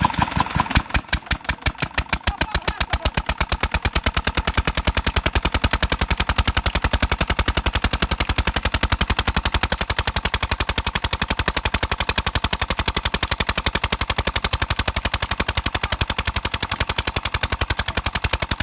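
Petter single-cylinder diesel engine running with a sharp, regular exhaust beat. It slackens about a second in, then speeds up over the next few seconds and settles into a fast, steady chugging.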